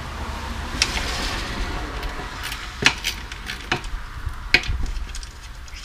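Small metal drum hardware (screws and lug parts) clinking and clattering as a tom is dismantled by hand, with several sharp clinks, the loudest about three and four and a half seconds in, over a steady hiss.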